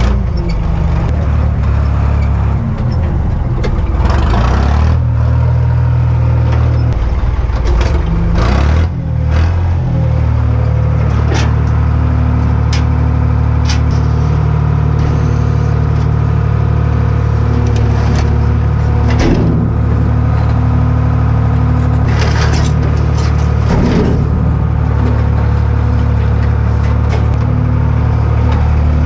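Cummins diesel engine of an old dump truck running, its speed shifting up and down a few times in the first ten seconds, then holding steady. Sharp clicks and rattles sound over it now and then.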